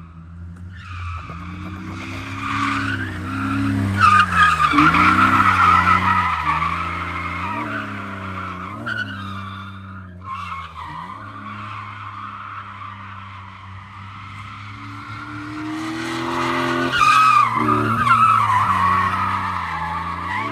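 BMW M54B25 2.5-litre straight-six, fitted with an N54 intake manifold and a catless straight-pipe exhaust, revving up and down as the car drifts, with tyres squealing. The engine and tyre squeal are loudest about four seconds in and again near the end.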